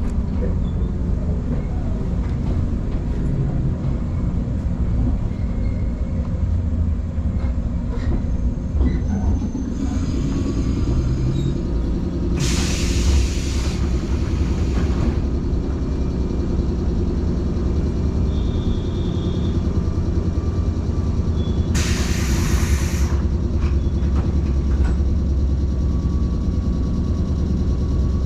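Electric train standing at a station, heard from inside: a steady low hum from its onboard equipment. Two short bursts of compressed-air hiss come about twelve seconds in and again about twenty-two seconds in.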